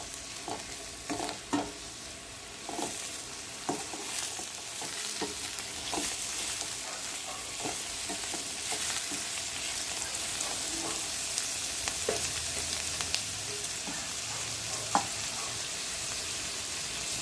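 Chopped capsicum, green chillies, onion and tomato sizzling in ghee in a pan while being stirred, with short scrapes and knocks of the stirring utensil against the pan now and then. It is a light sauté.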